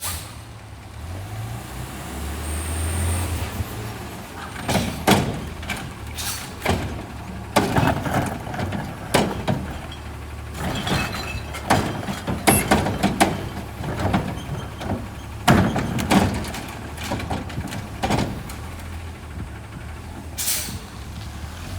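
Garbage truck idling with a low engine rumble while its lift mechanism works, giving a long run of loud metal bangs and clanks as the bin is slammed and shaken over the hopper. A short air-brake hiss comes near the end.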